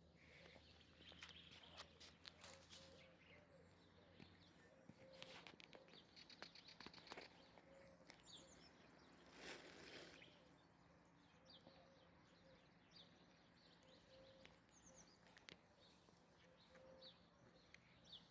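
Near silence: faint outdoor ambience with distant birds chirping now and then, a few soft clicks, and a brief rustle about ten seconds in.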